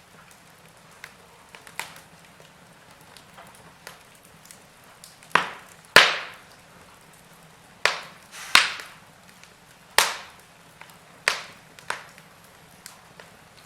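Wood fire in a fireplace crackling, with a series of sharp pops over a low hiss. The loudest pops come through the middle of the stretch, about one a second.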